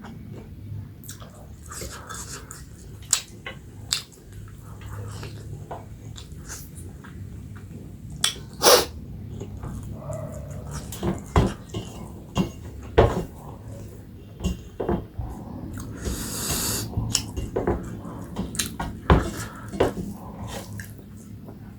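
Close-miked eating: a person chewing and smacking on curry and rice, with many sharp mouth clicks and smacks at irregular intervals and a longer rush of noise about two-thirds of the way through.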